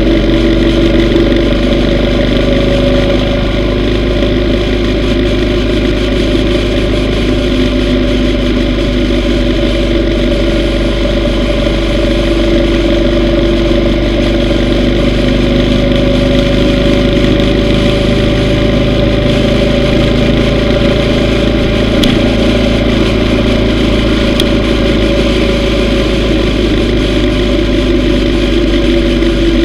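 Yamaha V Star 950 motorcycle's V-twin engine running steadily under way, its pitch drifting gently up and down with small throttle changes.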